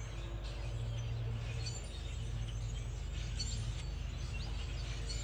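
Outdoor background: a few faint, brief chirps from small birds over a steady low hum.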